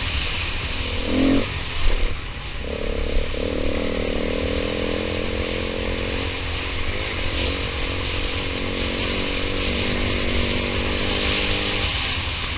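KTM 500 EXC single-cylinder four-stroke dirt bike engine running under way, its pitch rising and falling with the throttle. There is steady hiss and rumble from riding, and a few knocks in the first two seconds.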